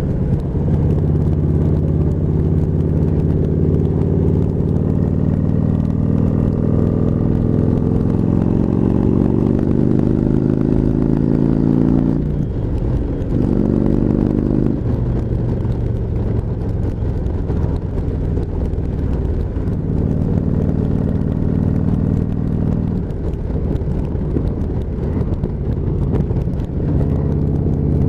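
Motorcycle engine running while riding: its pitch climbs steadily for about twelve seconds, then drops suddenly, picks up briefly and settles at lower revs that rise and fall again later.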